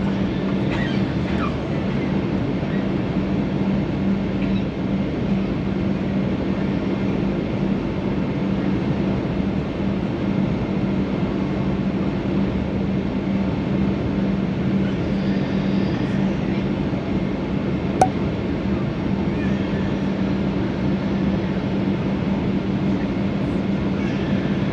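Steady cabin noise of a Boeing 737-800 on approach: an even rush of air and engine noise with a steady low hum, and one sharp click about eighteen seconds in.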